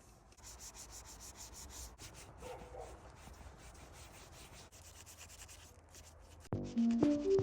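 Quick, repeated scrubbing strokes on a car's surface during detailing. Loud electronic music with a beat comes in near the end.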